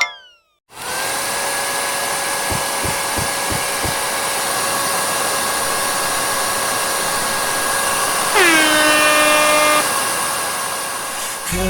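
Hair dryer running steadily, a hiss of air with a high motor whine. About eight seconds in, a second, louder whining tone drops in pitch and holds for a second and a half before the sound eases off.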